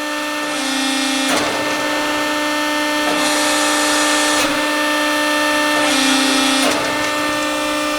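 Accurpress 175-ton CNC hydraulic press brake cycling: its hydraulic pump hums steadily. The pitch dips briefly twice, each dip ending in a knock, and there is a burst of hiss in the middle.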